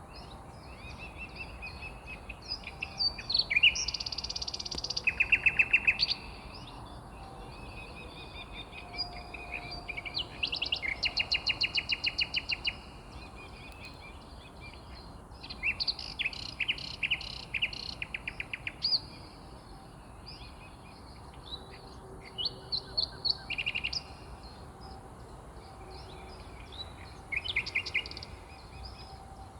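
Songbirds singing and calling, with several bouts of fast trills of rapidly repeated notes; the loudest trills come about four to six seconds in, and more follow around eleven, seventeen and twenty-eight seconds in.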